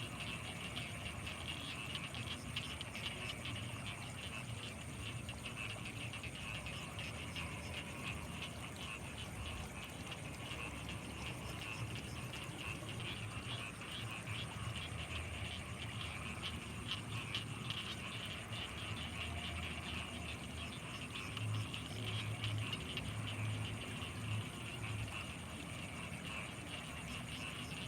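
Night chorus of frogs and insects: a dense, rapidly pulsing trill with a steady high-pitched insect whine above it. A low pulsing throb swells for a few seconds near the end.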